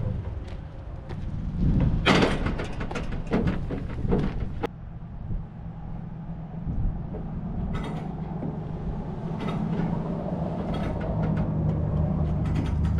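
A vehicle engine idling steadily, with a series of metallic knocks and clanks over it, the loudest about two seconds in.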